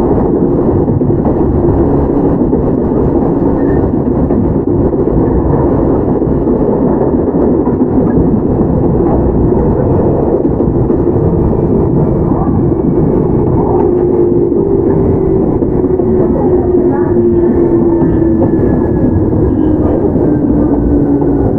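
Running noise inside a Toyama Chihō Railway 17480-series electric car (ex-Tokyu 8090, field-chopper control): a loud, steady rumble of wheels on rail and traction motors. Over the second half a motor whine slowly falls in pitch as the train slows.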